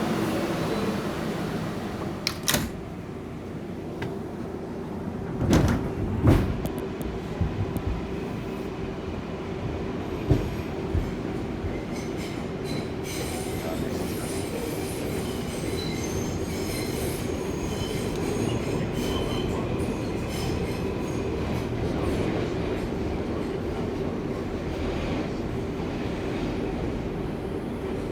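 Ride noise inside an R142A subway car running through the tunnel: a steady rumble with a steady hum, several loud clunks in the first eleven seconds, then high-pitched wheel squeal from about twelve seconds in.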